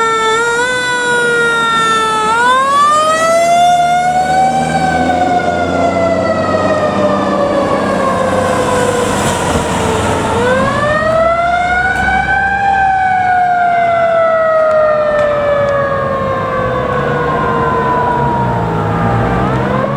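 Fire truck siren wailing: the pitch climbs over a couple of seconds, then falls slowly over several more, cycling about every eight seconds. A truck engine rumbles underneath.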